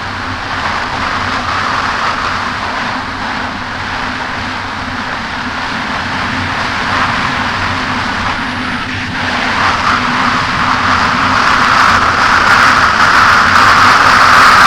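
Kawasaki Ultra 300X jet ski engine running with a steady hum under a wide rush of wind and water, which grows louder from about two-thirds of the way in.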